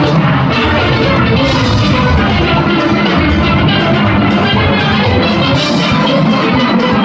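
A junior steel band playing steelpans in full ensemble, with drums keeping the beat underneath, loud and continuous.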